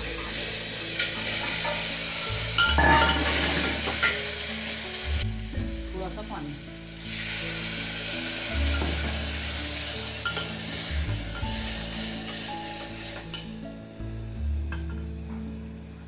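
Boiled arbi (taro root) pieces sizzling in hot mustard oil and spices in an aluminium pressure cooker, stirred with a steel spoon that clinks and scrapes against the pot. The sizzle dies down near the end.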